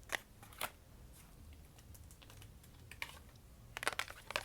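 Tarot cards being handled and laid down on a table: sharp taps and snaps, two about half a second apart at the start and a quick cluster near the end.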